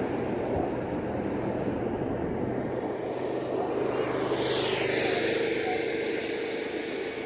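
An aircraft flying past at an air show: a steady engine drone, with a high whine that drops in pitch about four seconds in as it goes by.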